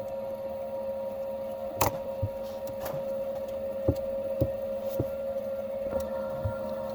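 A steady electric hum with a few sharp clicks and light knocks over it.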